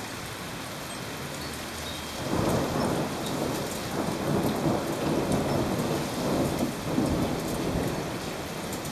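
Thunder rumbling over steady, heavy rain. The rumble sets in about two seconds in and rolls on for several seconds, rising and falling, before easing near the end.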